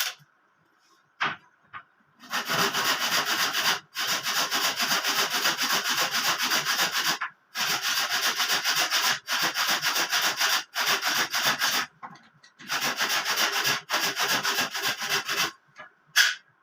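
Wood being sanded by hand: rapid back-and-forth rasping strokes in several spells separated by short pauses, with a few sharp knocks just before and just after.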